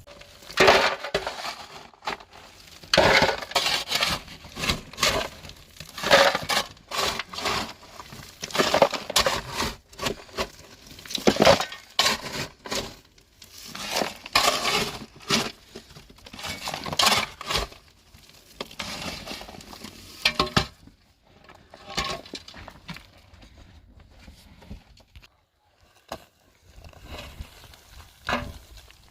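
A series of sharp breaking and clinking sounds, roughly one a second, from something being struck, broken or handled by hand. After about twenty seconds they give way to fainter, lighter clicks.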